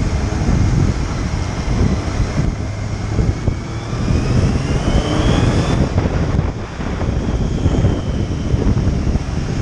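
Motorcycle riding along: engine running under a dense rush of wind noise, with a rising whine around the middle that cuts off suddenly.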